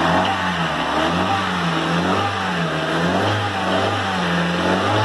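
Honda Civic four-cylinder engine idling while still cold, the exhaust manifold now quiet; its note rises and falls slightly about once a second.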